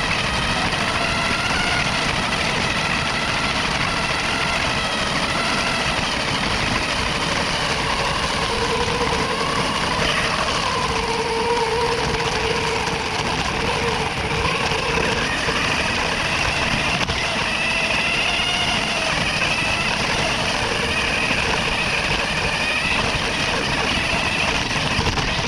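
Lego Technic car's plastic wheels rolling down a paved hill with a GoPro on board: a steady rolling rumble with a faint wavering whine over it.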